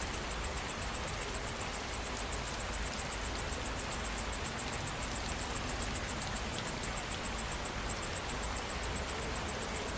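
Steady rain falling, an even hiss with a low rumble underneath, and an insect chirping high-pitched in fast, even pulses several times a second.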